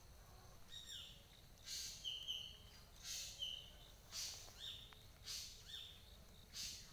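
A bird calling again and again, about once a second, each call a short falling whistle joined to a harsh, raspy note; the calls begin about a second in.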